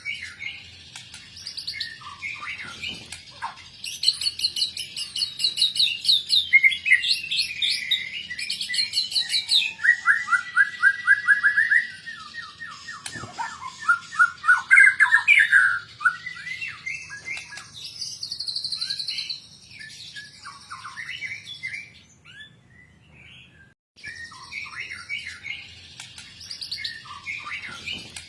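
White-rumped shama (murai batu) singing a long, varied song of rapid trills, fast repeated notes and whistled phrases, its 'full isian' repertoire packed with fill-in notes and imitations; the song breaks off briefly a little after the two-thirds point, then resumes.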